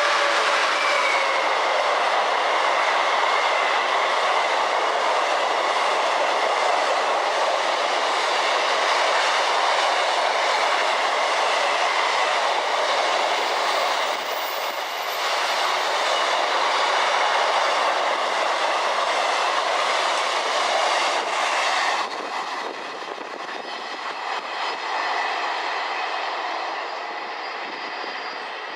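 A train passing close by on the line, a loud steady rush of wheel and rail noise with clattering over the rail joints. About 22 seconds in the noise drops suddenly, then fades as the train draws away.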